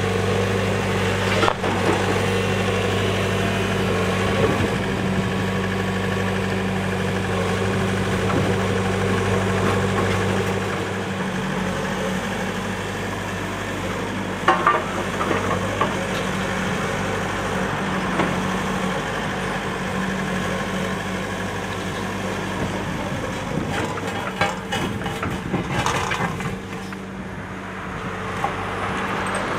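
Diesel engine of a Takeuchi TB290 compact excavator running steadily, with scattered clanks and knocks from the machine at work.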